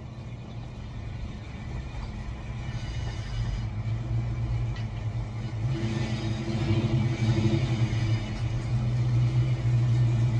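Fox-body Ford Mustang's engine idling steadily with a low, even rumble. It grows louder as the garage door rolls up.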